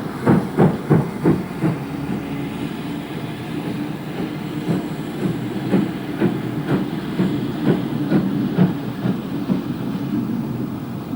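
Great Western Modified Hall class steam locomotive running: sharp exhaust beats in quick succession for the first couple of seconds, then easing into a steady rhythmic clatter of the train's wheels, a knock about every second.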